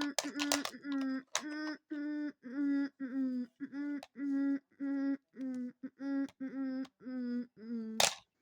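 A voice humming or singing a run of short wordless notes on nearly one pitch, about two a second. There are sharp clicks in the first second and a loud click about eight seconds in.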